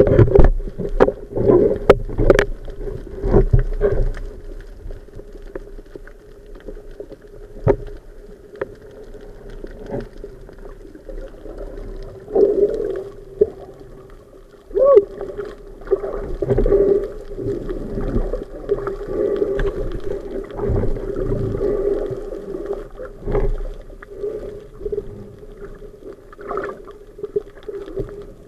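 Underwater sound heard through the camera: a steady low hum with bursts of bubbling and sharp knocks, the knocks thickest in the first few seconds.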